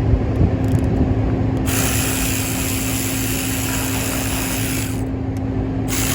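Power ratchet running in two spells, about three seconds then a short pause and again near the end, backing out the bolts of an engine cover, over a steady low hum.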